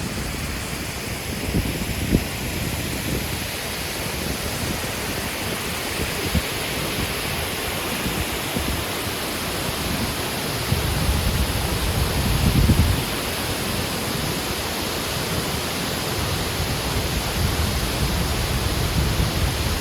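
Water falling down a tall artificial waterfall, a steady rushing noise. Low rumbles come and go beneath it and are loudest a little after ten seconds in.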